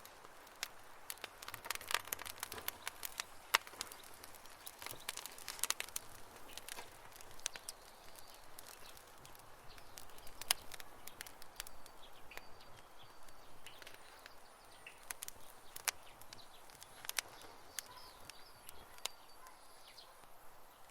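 Campfire wood crackling and popping: many sharp snaps over a soft steady hiss, thickest in the first few seconds and thinning out after. Faint short bird chirps come in during the second half.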